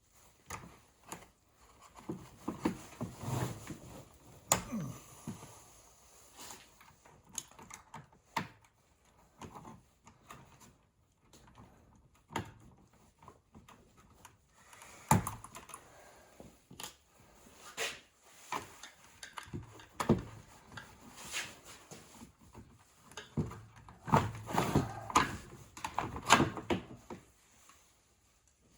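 Plastic parts of a Bissell floor scrubber being handled during disassembly: irregular clicks, knocks and rattles, louder bunches of handling around the middle and near the end.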